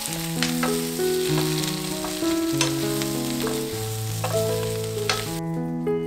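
Sausage, potatoes, zucchini and onion sizzling in a hot frying pan while a wooden spatula stirs and tosses them, with a few sharp scraping knocks. Gentle background music with a melody plays under it, and the sizzling cuts off about five seconds in, leaving only the music.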